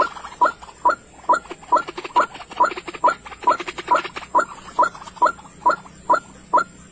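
A bird calling over and over at an even pace, about two short notes a second, each sliding downward in pitch, over a steady high hiss.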